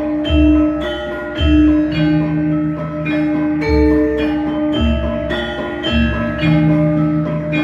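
Javanese gamelan ensemble playing: bronze metallophones strike ringing, interlocking notes over deep beats that come roughly once a second.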